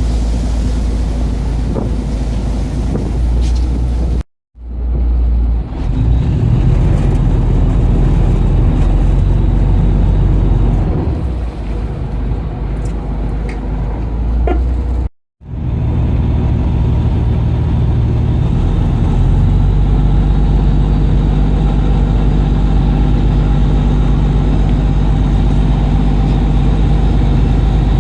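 A boat engine running steadily with a low, even drone, broken twice by brief gaps where the footage cuts.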